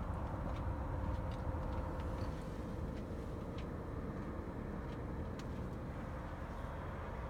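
A heavy engine idling steadily as a low rumble with a constant hum, with faint footsteps clicking now and then.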